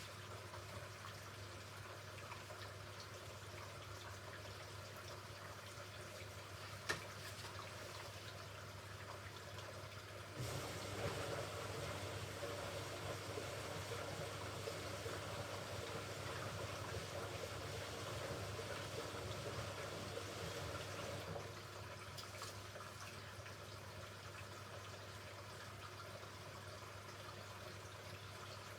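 Hoover Ecologic Computer Washer 1300 during its rinse, over a steady low hum: about a third of the way in, water starts rushing into the machine, the inlet valve filling the drum for a rinse, and it shuts off suddenly about ten seconds later. A single click comes shortly before the water starts.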